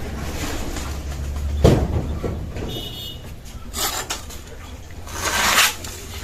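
Palm fruit being cut with a knife: a sharp chop about a second and a half in, then a short scrape and a longer rasping cut near the end.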